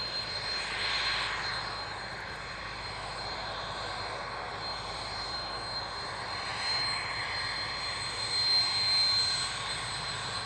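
Aircraft engine running steadily, with a thin high whine that grows a little louder about eight seconds in.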